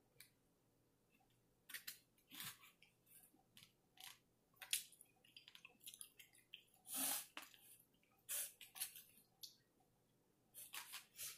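Faint, irregular close-up chewing: short moist smacks and clicks of a mouth working through barbecue meat, roughly one every half second to a second, with a slightly longer wet smack about seven seconds in.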